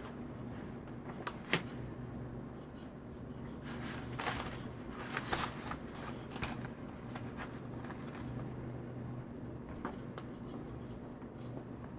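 Hands handling craft materials (paper and ribbon): scattered small clicks and bursts of rustling, loudest around four to five seconds in, over a steady low hum.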